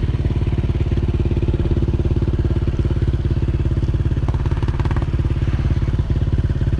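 Yamaha Exciter single-cylinder motorcycle with a performance exhaust, running steadily with an even, rapid exhaust beat.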